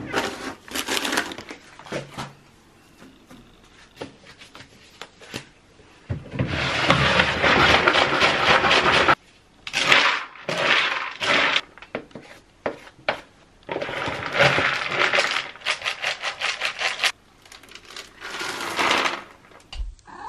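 Repeated bursts of scraping or scrubbing noise, each one to three seconds long, with sharp clicks and clatter between them, as of household cleaning.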